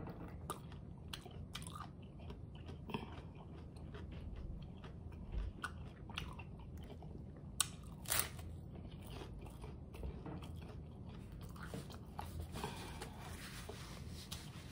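Chewing a crunchy hard-shell taco: scattered crunches and mouth sounds, with the two sharpest crunches of a fresh bite a little after the middle.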